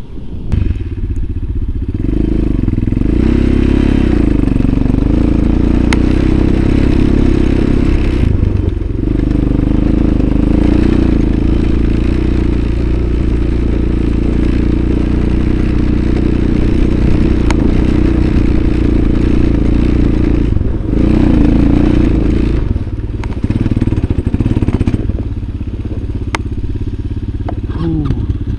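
A motorcycle engine running steadily close by, its pitch wavering briefly a few times.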